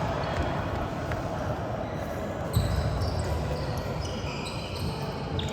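Basketball game sounds on a court: the ball bouncing on the floor, with short high squeaks of sneakers and a steady background of gym noise.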